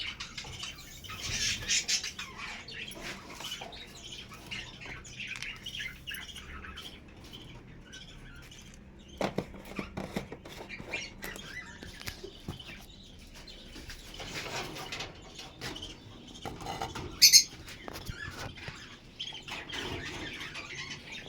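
Pet budgerigars chattering and chirping continuously. There are a few knocks about nine seconds in, and one loud, sharp, brief sound later on.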